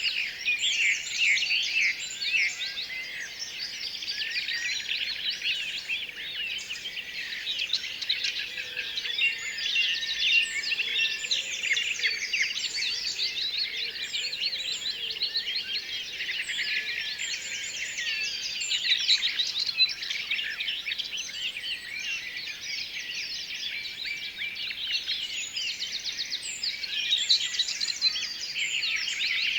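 A dense chorus of many small birds chirping and chattering at once, rapid high-pitched calls overlapping without a break.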